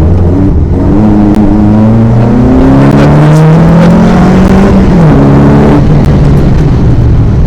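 VW Golf GTI Mk1 rally car's four-cylinder engine heard from inside the cabin, accelerating hard: the revs climb over the first few seconds, then the pitch changes about five seconds in, as at a gear change.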